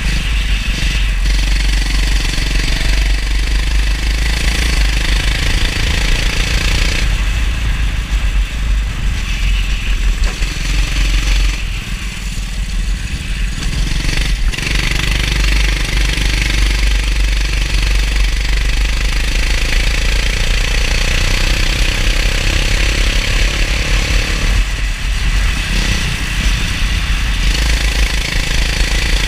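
Go-kart engine running at speed, easing off briefly about twelve seconds in and picking up again, over a deep rumble and a steady hiss.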